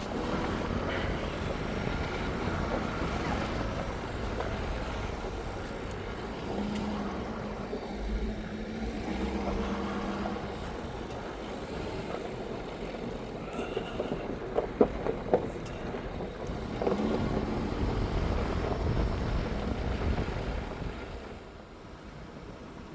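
Ford Super Duty diesel pickup with a truck camper driving over a rough dirt forest road, with steady road and engine noise. A few sharp knocks come about two-thirds of the way through, and the sound quietens near the end.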